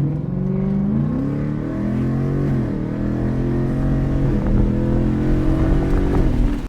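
2024 Ford Mustang GT's 5.0 V8 running under throttle. The pitch climbs, falls back about two and a half seconds in, climbs again and then holds steady, before cutting off suddenly.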